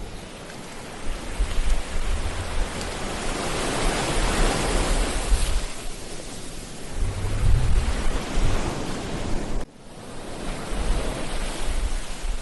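Ocean surf breaking and washing up a beach, one wave swelling to a peak about four seconds in, with wind buffeting the microphone in low gusts. The sound cuts out for an instant about ten seconds in.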